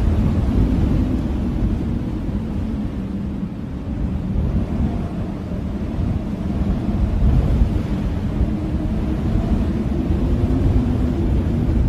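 Blizzard wind blowing in a steady low rush, with a faint wavering howl and gusts that swell and ease.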